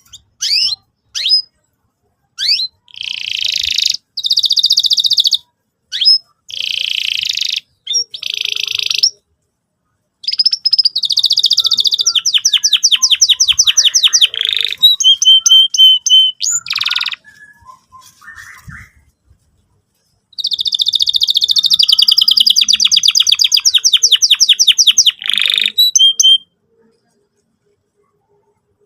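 Canary singing: phrases of rapid trills and buzzy rolls of fast-repeated notes, broken by short pauses, stopping a couple of seconds before the end.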